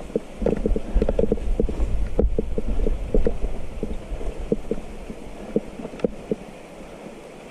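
Mountain bike rattling and knocking over a rough trail, with irregular clicks and clunks over a low wind rumble on the microphone. The knocks thin out in the second half.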